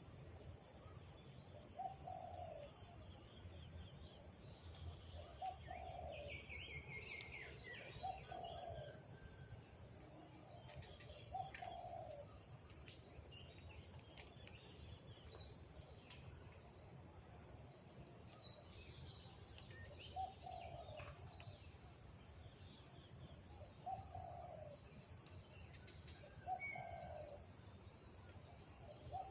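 Faint birdsong: a low call repeats about every three seconds, with scattered higher chirps and twitters. A steady high insect chorus of crickets runs underneath.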